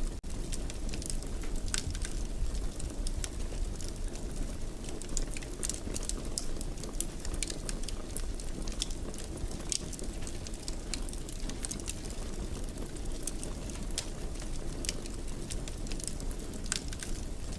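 Wood fire burning in a fireplace: a steady low rumble of flames with irregular crackles and small pops scattered throughout. There is a momentary drop-out right at the start.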